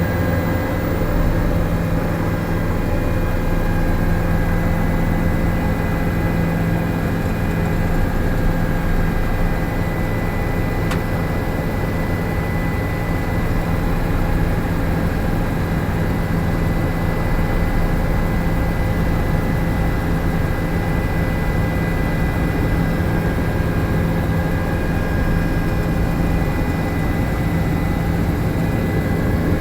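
Helicopter in flight: a steady, unchanging drone from its engine and rotor, with a fast low beating underneath.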